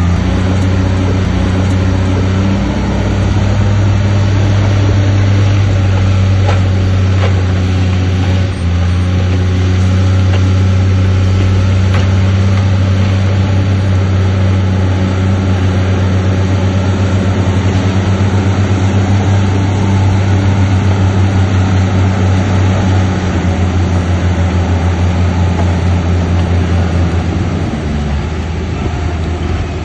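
Heavy diesel engine of earthmoving machinery running steadily and loud, with a brief dip about eight seconds in and a change of engine speed near the end.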